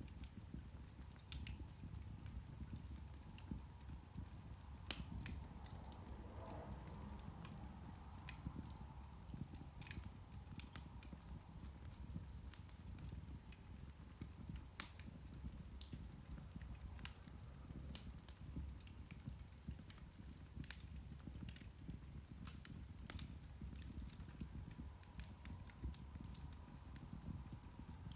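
Irish turf (peat) fire crackling: irregular sharp pops and snaps, a few every second, over a low steady rumble.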